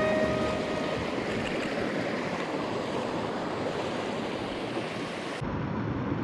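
Headwater mountain stream running, a steady rush of water; about five seconds in the sound changes abruptly and loses its highest part.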